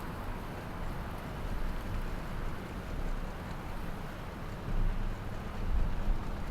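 Boat engine running at the ramp under a steady rumble, with wind gusting on the microphone about five and six seconds in.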